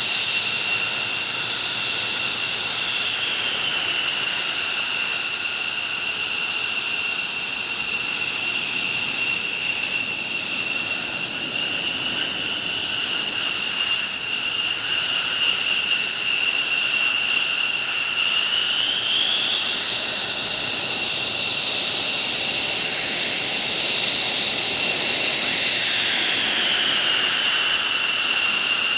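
F-15 fighter's twin turbofan engines running on the ground, a steady rushing noise under a high-pitched whine that shifts briefly in pitch a few times.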